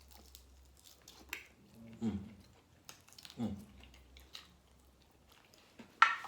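Close-up chewing and biting of spicy chicken wings, with wet mouth clicks, two short low hums from the eater, falling in pitch, about 2 and 3.5 seconds in, and a sharp smack near the end.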